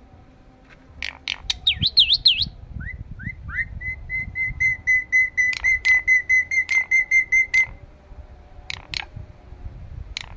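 Starling (jalak) calling: a few sharp clicks, then quick up-and-down whistles, then a run of repeated whistled notes at about four a second. More clicks come near the end.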